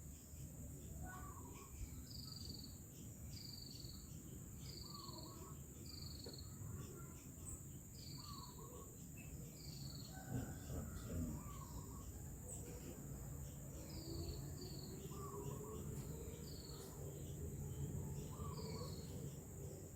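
A bird repeating a short, high, falling call about once a second, with other chirps mixed in, over a steady high-pitched insect drone and faint background noise.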